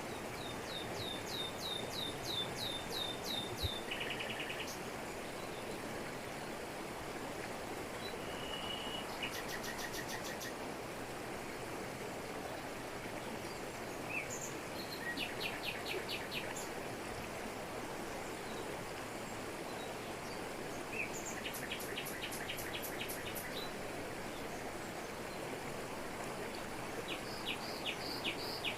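Jungle waterfall falling over rocks, a steady rushing, with songbirds calling over it: a run of quick falling chirps near the start, then short rapid trills several times.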